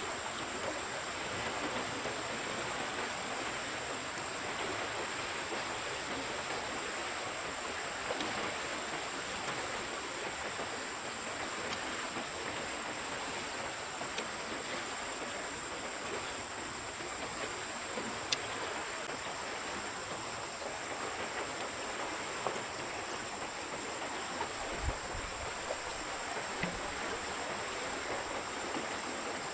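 Steady, even rush of a forest stream flowing, with a thin, steady high-pitched tone running over it and a few faint ticks.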